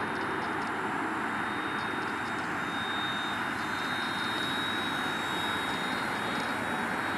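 Small electric RC helicopter, a WLtoys V911, in flight on a low battery: its motor and rotor make a steady whirring buzz, with a thin high whine joining in about three seconds in.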